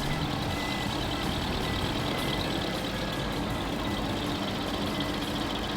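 Multi-cutter wood planing machine running steadily as it planes strip planking boards to a half-round edge profile.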